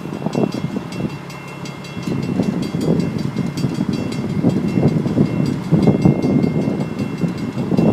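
TriMet WES diesel commuter railcar running by, a low rumble with repeated, uneven wheel clacks over the track and a faint steady high tone.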